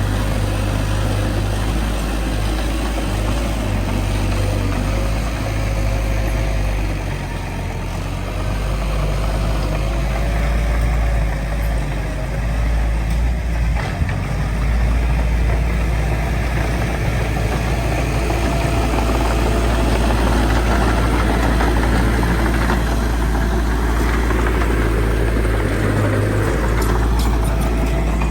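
Heavy diesel engine of earthmoving machinery running with a steady deep drone. It eases a little about a quarter of the way through, then builds up again.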